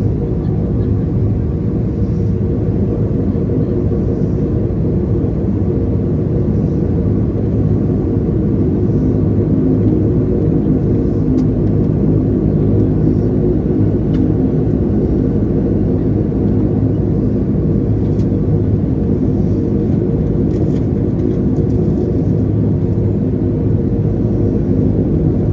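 De Havilland Canada Dash 8-300's twin Pratt & Whitney PW123 turboprops running steadily: an even, loud drone with a low rumble and steady propeller tones that hold the same pitch throughout.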